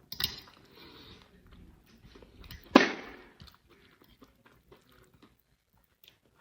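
Close-miked chewing of a mouthful of pasta topped with crunchy shoestring potato sticks, with one loud sudden mouth sound about three seconds in; the chewing grows faint after that.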